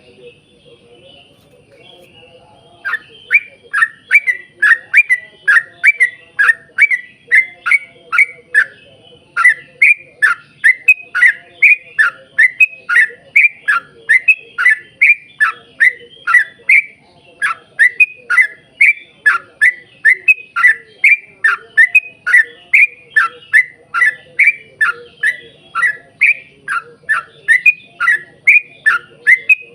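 Yellow-vented bulbul (trucuk) calling in a long, rapid run of short, downward-sliding notes, about two a second. The run starts about three seconds in and breaks off briefly twice.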